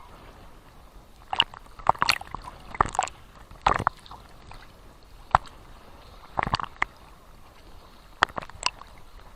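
Small sea waves sloshing and lapping at the shore, with irregular sharp splashes and slaps, about ten in all, over a soft steady wash of water.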